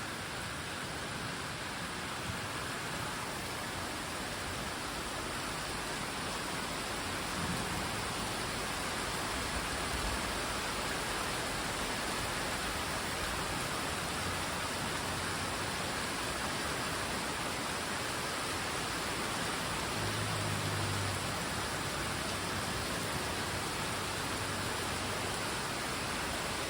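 Heavy rain pouring steadily, a dense even hiss, with a brief low rumble about twenty seconds in.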